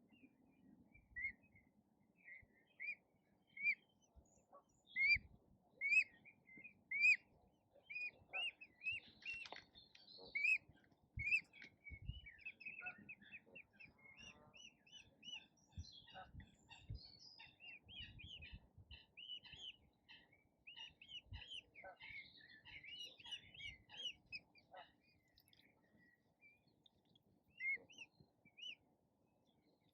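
Small birds chirping: many short, high chirps in quick runs, faint, with a few soft low thumps underneath.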